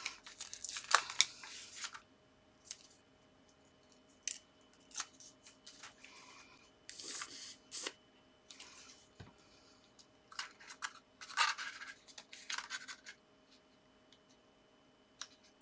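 Paper and card being handled: intermittent rustling, scraping and small sharp taps, with short quiet gaps between them.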